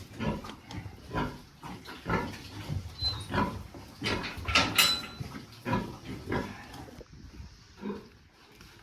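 Pig grunting in a run of short, irregular grunts, a few a second, loudest in the middle and dying away near the end.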